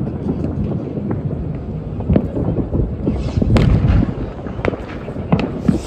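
Fireworks going off all around: a dense, continuous crackle of bangs from firework batteries, rockets and firecrackers over a low rumble, with a louder cluster of booms about three seconds in and rocket hisses near the middle and the end.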